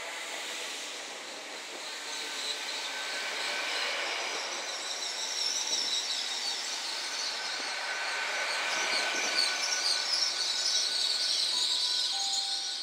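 Great Western Railway Class 800 express train running into the platform and braking, its wheels and brakes giving a thin high squeal over the rumble of the passing coaches.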